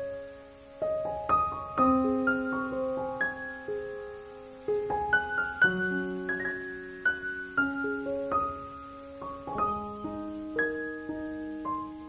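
Background piano music: gentle notes struck one after another, each ringing on and fading under the next.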